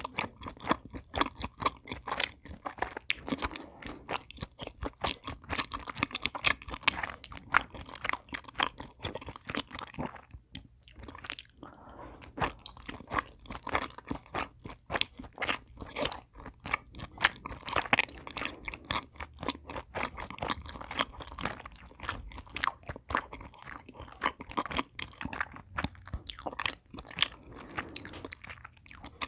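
Close-miked chewing of chocolate choux pastry, a dense run of crunches and mouth clicks that stops briefly about ten seconds in before carrying on.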